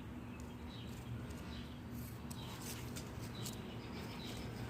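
Small bird chirping faintly, short high calls about once a second, with a few faint clicks and taps.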